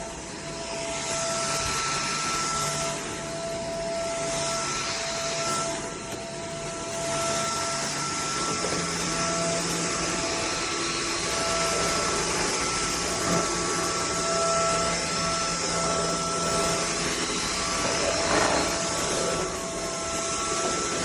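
SKIWEC 600W cordless stick vacuum cleaner running: a steady rush of air with a high motor whine, its level swelling and dipping slightly.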